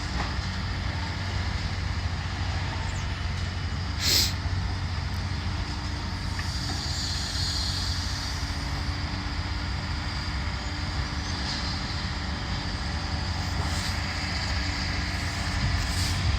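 Heavy diesel demolition machine running steadily with a low drone. There is a single sharp crack about four seconds in and a soft hiss midway.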